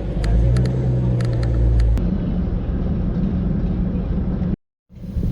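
Jeep engine and road rumble while driving, steady and low. It breaks off for a moment near the end.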